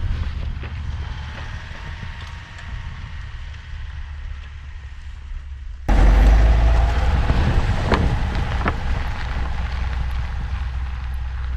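Low rumble of a vehicle driving, mixed with wind noise on the microphone. The sound jumps abruptly louder about six seconds in.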